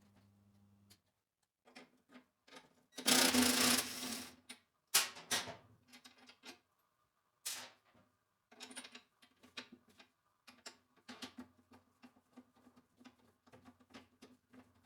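Hand work on a mower in a small workshop: irregular clicks, knocks and light clatter of tools and parts being handled, with a brief loud rustling or rattling burst about three seconds in.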